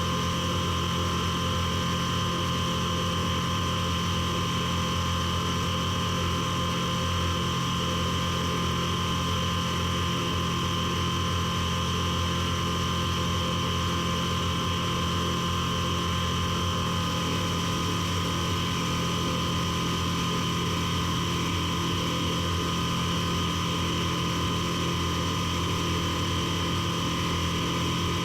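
Light aircraft engine and propeller droning steadily in cruise, heard from inside the Piper Super Cub's cabin.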